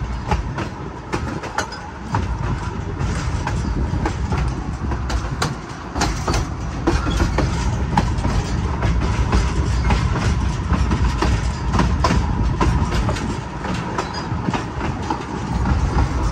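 Narrow-gauge passenger train rolling downgrade, heard from an open car: a steady low rumble with irregular clicking and clacking of the wheels over the rail joints.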